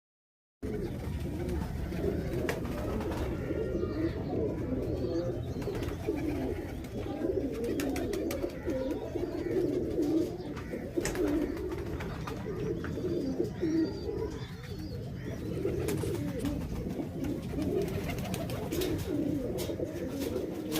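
Many domestic pigeons cooing together in a continuous, overlapping murmur, with a few faint clicks mixed in.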